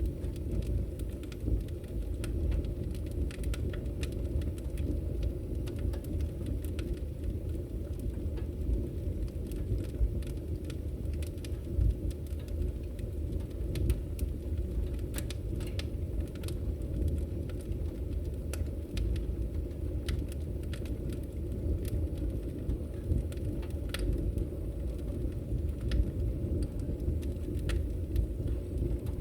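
Wood fire crackling in a fireplace: scattered sharp pops and snaps, a few louder than the rest, over a steady low rumble of burning.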